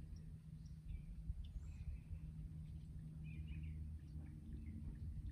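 Low, steady background rumble with scattered faint bird chirps and short calls throughout.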